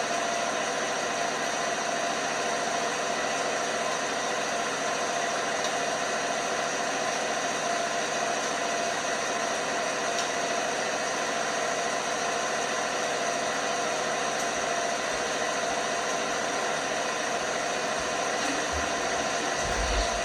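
LG washing machine running steadily, its motor and drum giving an even hum with a constant whine over a rushing noise, and a couple of soft low knocks near the end.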